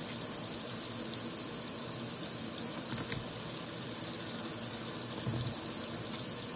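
Steady high hiss, even and unbroken.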